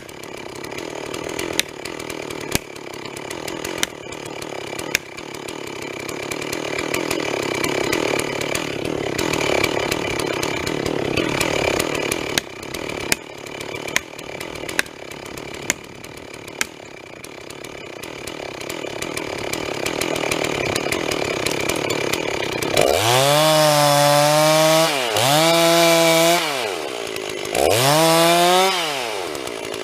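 Stihl MS 250 two-stroke chainsaw running through a felling cut, with a series of sharp knocks in the first half. Near the end the saw is revved hard three times, its pitch rising and falling with each burst.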